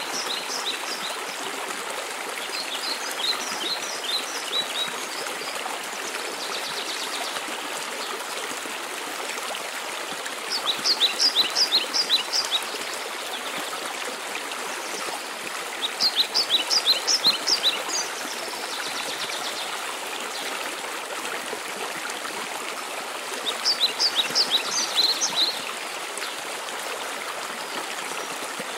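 Steady rush of a mountain waterfall, with a songbird singing a quick phrase of high, rapid notes over it about every six seconds, the loudest phrases near the middle and later on.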